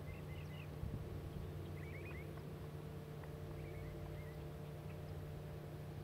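Faint twittering chirps of small birds in three short phrases, near the start, about two seconds in and about four seconds in, over a steady low hum, with a few soft taps.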